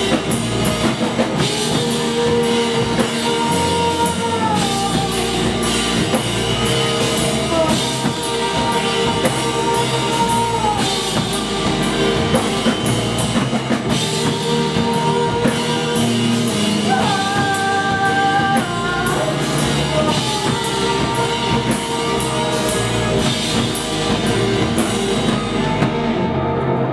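Indie rock band playing live: a drum kit with dense cymbal strokes and guitars under a melody of held notes that slide between pitches. The cymbals drop out about a second before the end.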